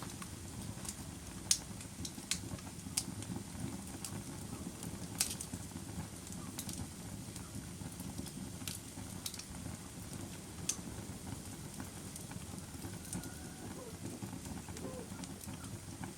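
Campfire burning: a low, steady rush of flame with irregular sharp crackles and pops, a few of them louder than the rest.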